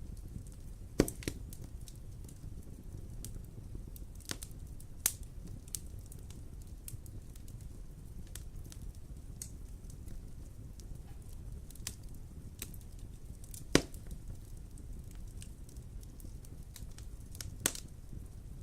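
Wood fire burning in a fireplace: a steady low rumble with scattered sharp crackles and pops, a few of them louder, about a second in, near 5 s, near 14 s and near the end.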